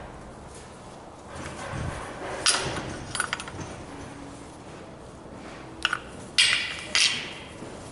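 Metal clinking and knocking, as of tools or fittings being handled and set down: a handful of sharp clinks, the last few ringing briefly, with no engine running.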